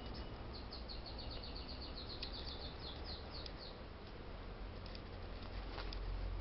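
Small bird chirping a rapid run of short, falling high notes, about four or five a second, starting about half a second in and stopping before four seconds, over a steady background hiss. A low rumble swells near the end.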